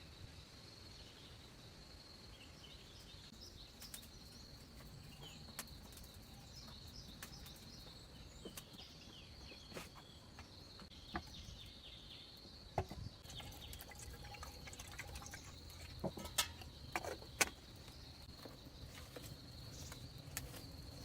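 Outdoor forest ambience: a steady high insect drone with scattered bird chirps, and occasional sharp taps or knocks, a few louder ones in the second half.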